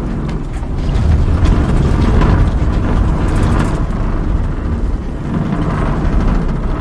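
Film sound of a small spacecraft's fast atmospheric entry: a loud, continuous low rumble with rattling and crackling as the craft buffets through the air.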